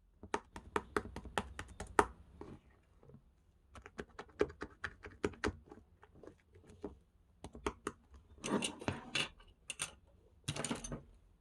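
Slime being squeezed and poked by hand: a run of sharp, crisp clicks and pops, a pause, a second run of clicks, then three longer, noisier bursts near the end.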